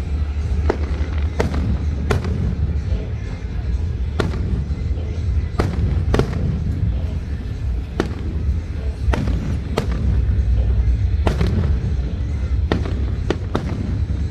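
Fireworks going off: about a dozen sharp bangs at uneven intervals, some close together, over a constant low rumble.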